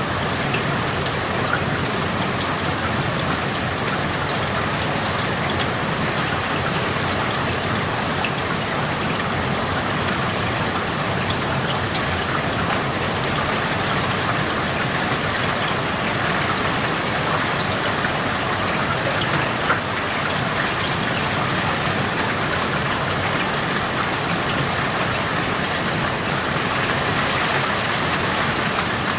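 Steady rain falling, with individual drops heard as small scattered taps; one sharper tap stands out about two-thirds of the way through.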